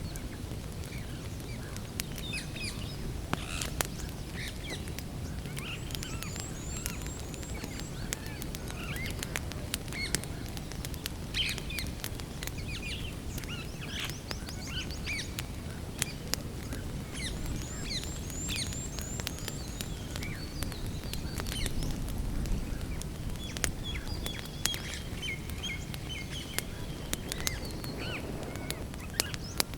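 Wood campfire crackling with frequent sharp pops over a steady low background, while small birds chirp and sing around it, with two runs of rapid high notes and a trill late on.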